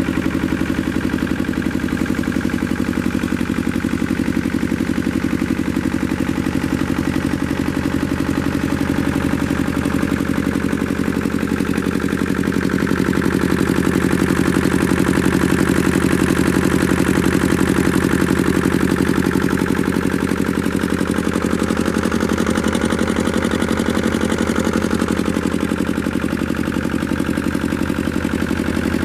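Lister two-cylinder diesel engine driving a 7 kVA Brush alternator, running steadily with an even, fast diesel beat; it grows a little louder in the middle, then settles.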